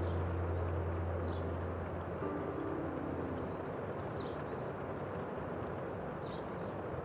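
Steady hiss of rain mixed with road traffic. A low engine drone fades out about two seconds in, and a few short, high bird chirps come through.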